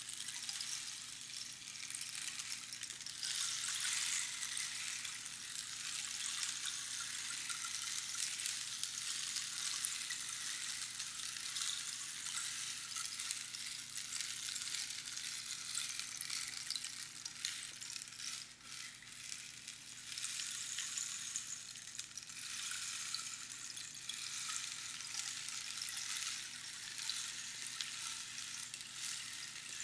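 Rainstick with pebbles trickling down past the pins inside the tube, making a continuous rain-like hiss that swells and eases. There is a brief lull about eighteen seconds in.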